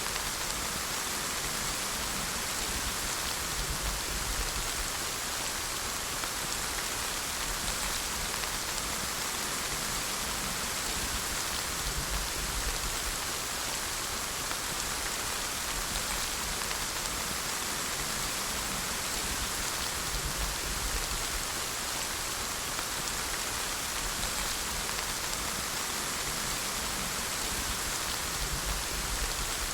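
Steady rainfall, an even hiss of many drops that neither builds nor fades.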